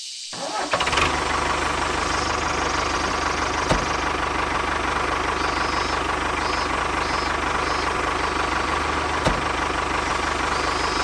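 An engine starts about half a second in and runs steadily at idle with an even firing rhythm. Two sharp clicks sound partway through.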